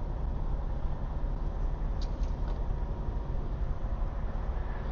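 Steady low rumble of an idling diesel semi-truck engine, with a few faint clicks about two seconds in.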